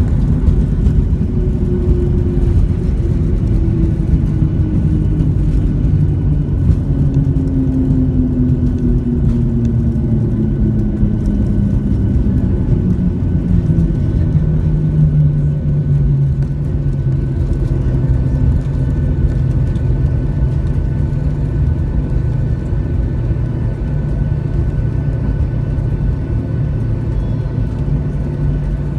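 Inside the cabin of a Boeing 737-600 slowing after landing: a heavy, steady rumble with an engine whine that falls in pitch over about fifteen seconds as the engines spool down, then settles to a steady lower hum.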